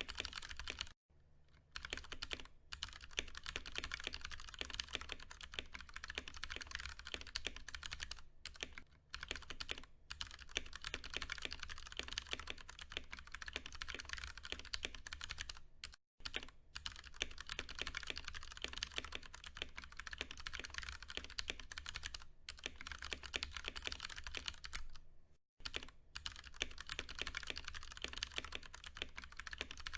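Fast, continuous typing on a Ducky One 2 Mini mechanical keyboard with Cherry MX Brown switches: a dense stream of key clicks and clacks, broken by short pauses four times.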